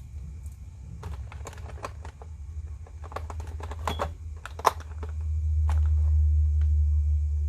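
Quick plastic clicks and taps from a boxed action figure and its packaging being handled, the sharpest snap about four and a half seconds in, followed by a steady low rumble that becomes the loudest sound near the end.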